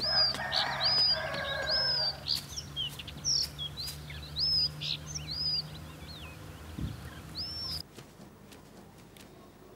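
Small birds chirping: a string of short, high, arched whistled notes, about ten of them, over a low steady hum. The chirps and hum stop abruptly near the end.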